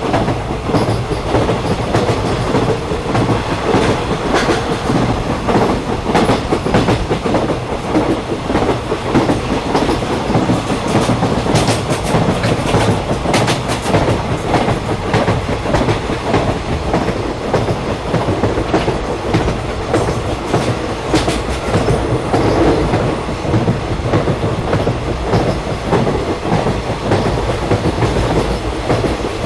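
Train running steadily at speed, heard from inside a passenger carriage: a dense, even rumble with frequent clicks of the wheels passing over rail joints.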